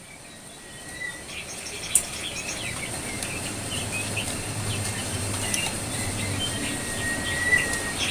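Jongkangan coklat songbird calling with a rapid run of short high chirps and thin whistled notes, over a steady background hiss.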